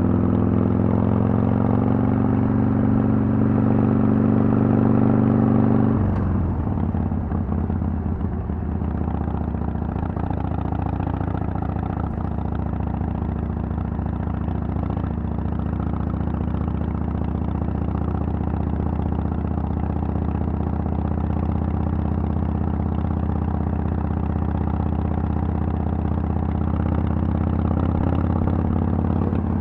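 Harley-Davidson Sportster XL883L's 883 cc air-cooled V-twin running through Vance & Hines Twin Slash pipes while riding. The engine pulls with a slowly rising pitch, then drops abruptly at about six seconds and runs on steadily at a lower pitch, picking up slightly near the end.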